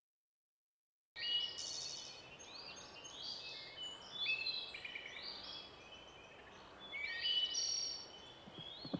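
A chorus of several songbirds singing and chirping, with many overlapping, repeated whistled phrases that rise and fall, over a faint steady hiss. It starts suddenly about a second in, after silence.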